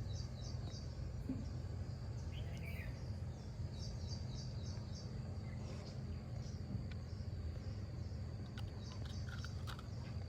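Outdoor background: a steady low rumble under runs of short, high chirps, with a few light clicks.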